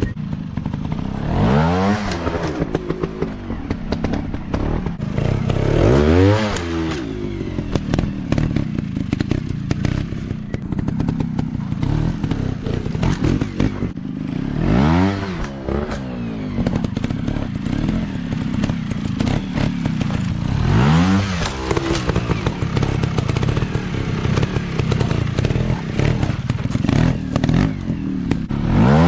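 Off-road dirt bike engines running steadily, revved up and dropped back about five times, with clattering and knocking throughout.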